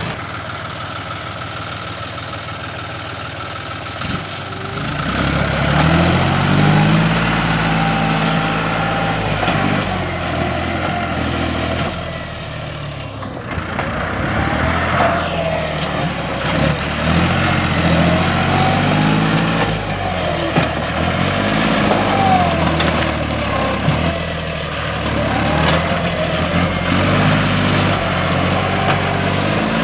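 Tractor engine running, at first steady, then louder from about four seconds in, its pitch rising and falling again and again as it works.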